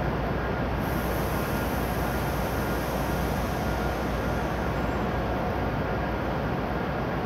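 Steady mechanical noise of E7-series Shinkansen trains standing at a covered station platform, with a faint high hiss joining about a second in.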